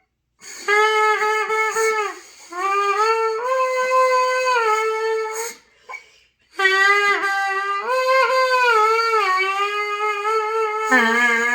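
Trumpet played by a learner doing note practice. First come several short tongued notes, then longer held notes that waver and slide upward in pitch, and after a short break, more long, wobbly held notes. A lower, steadier note comes in near the end.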